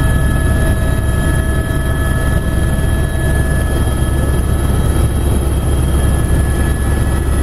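Helicopter running steadily, heard from inside the cabin: a constant heavy rotor and engine rumble with several steady high-pitched turbine whines over it.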